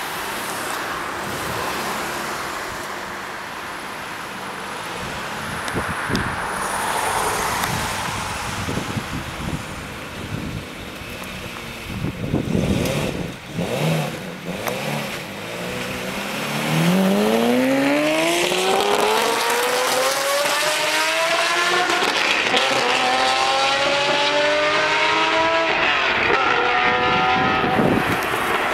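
Lamborghini Murciélago V12 engine revved in a few sharp blips, then launching about two thirds of the way in and accelerating hard, its note climbing steadily and stepping down at each upshift.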